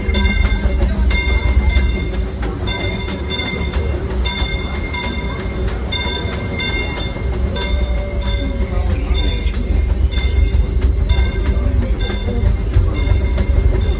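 Disneyland Railroad narrow-gauge steam train heard from a passenger car behind the locomotive Fred Gurley: a steady low rumble of the wheels on the rails with regular clicks, while the train runs along the track.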